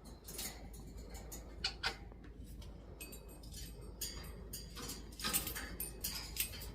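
Faint, irregular clicks and light scratching.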